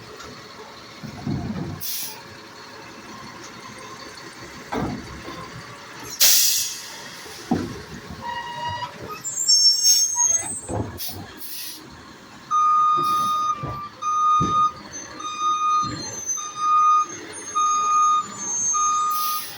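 Garbage truck at work: knocks and clanks, a sharp hiss of air about six seconds in, and a brief high squeal. From about two-thirds of the way through, its reversing alarm beeps steadily, a little more than once a second, as it backs up.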